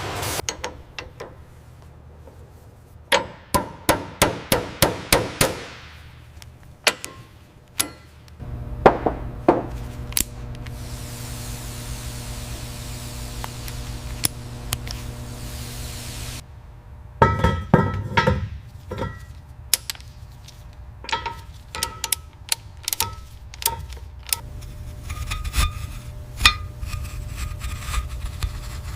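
Metal tools tapping and clanking in a workshop: a quick run of ringing hammer-like strikes, about three a second for a couple of seconds, then a steady low machine hum under scattered clinks and clanks of tools and parts.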